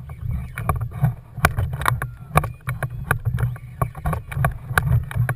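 Kayak on the water: irregular small knocks and splashes against the hull, a couple or so each second, over a constant low rumble.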